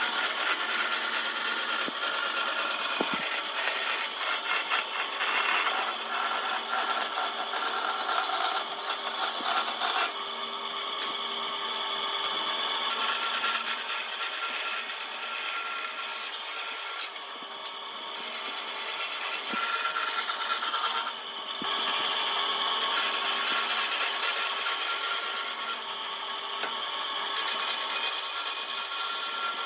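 Power tool working wood: a continuous, steady rasping and rubbing with a motor's steady hum, pausing briefly a couple of times.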